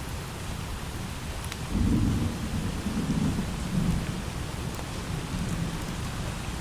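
Steady light rain hissing, with a low roll of thunder that starts about two seconds in, rumbles in three or four swells and fades away a few seconds later.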